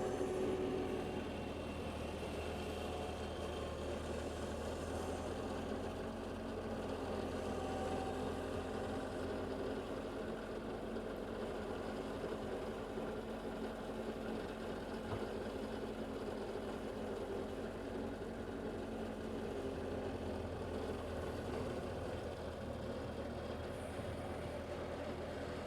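Engine of heavy snow-clearing equipment running steadily while pushing snow.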